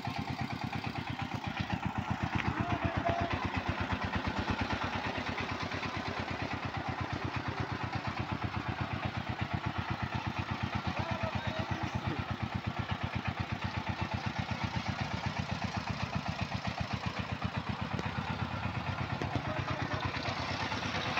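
Single-cylinder Changfa diesel engine of a bhutbhuti motor van running steadily under load, hauling a full load of cement bags, with rapid, even firing beats.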